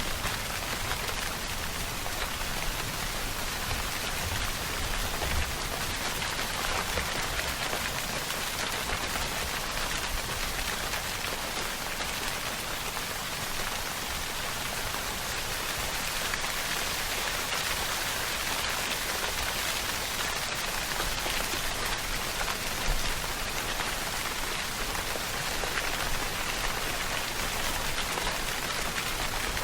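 Steady rainfall, an even hiss of rain falling on a surface, with no let-up or change.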